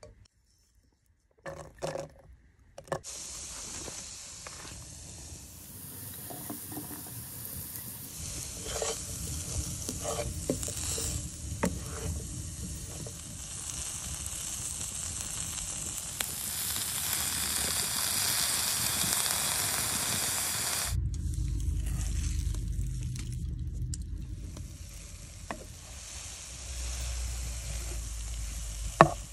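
Vegetables sizzling and frying in ghee in a pot, stirred with a spoon that gives occasional clicks and scrapes. After about twenty seconds the sizzle weakens and a low rumble takes over.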